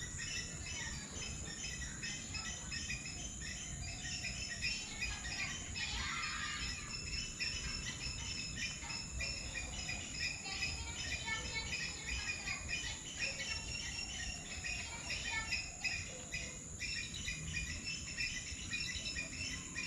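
Many small birds chirping and twittering together in a dense chorus, over a steady high insect buzz.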